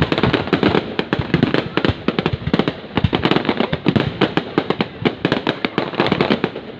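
Fireworks display going off in a dense, unbroken string of sharp bangs and pops, many a second.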